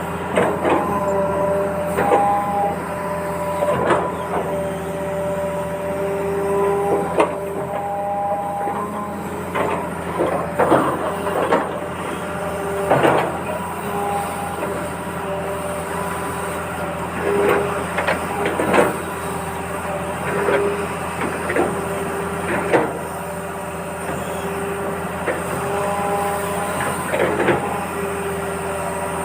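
Heavy machinery at work: an engine running steadily, with repeated clanks and knocks and short squealing tones that come and go.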